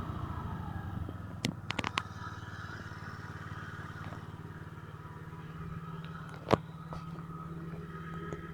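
Honda Dio AF-62 scooter's four-stroke engine idling steadily as a rev dies away at the start. A few sharp clicks come between one and a half and two seconds in, and a single louder click comes about six and a half seconds in.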